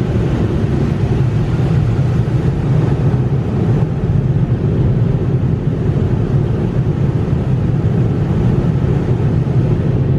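Coleman Hanna mini tunnel car wash machinery heard from inside the car: a loud, steady roar. The high part of the sound fades away right at the end.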